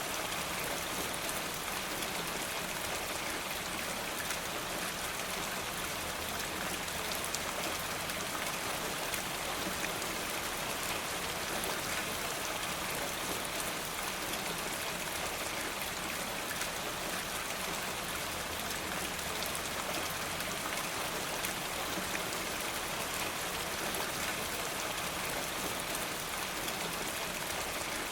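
Steady rain falling, an even hiss of many small drop hits that holds at one level throughout.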